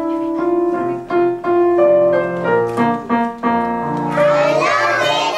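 Piano playing a melody of separate, distinct notes. About four seconds in, a group of children's voices joins in singing along with it.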